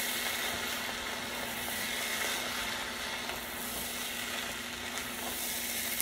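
Ground beef and dry rice mix sizzling in a frying pan while being stirred with a wooden spoon: a steady frying hiss.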